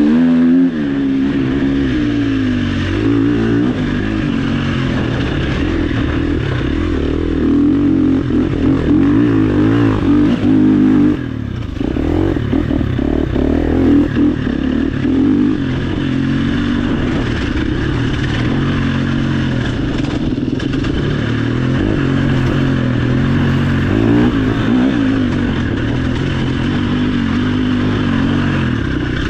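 Off-road motorcycle engine revving up and down continuously, its pitch rising and falling with the throttle and gear changes, with a short easing off about a third of the way through. Some rattling runs with it.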